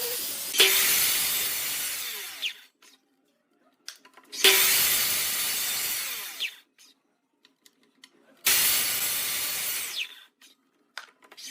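A woodworking power tool cutting wood in three bursts of about two seconds each. Each starts suddenly and fades away, with near silence in between.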